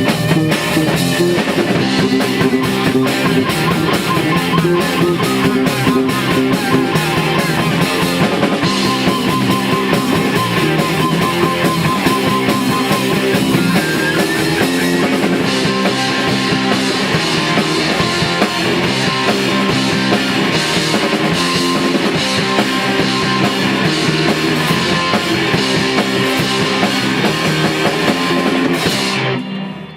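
Rock band playing loud with guitar and drum kit, the song stopping abruptly about a second before the end.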